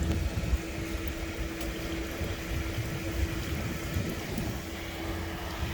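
Marina sewage pump-out station's pump running steadily with a constant hum, drawing out the boat's holding tank.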